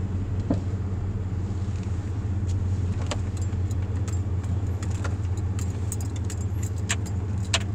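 Steady low rumble of a car heard from inside the cabin, with scattered light clicks and rattles and one sharper click near the end.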